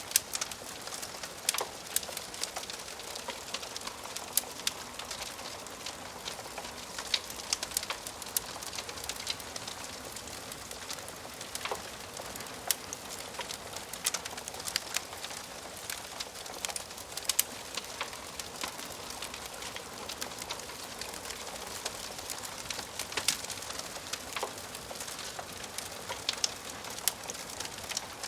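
Wood fire in a fireplace crackling: irregular sharp pops and snaps, several a second, over a steady hiss of burning.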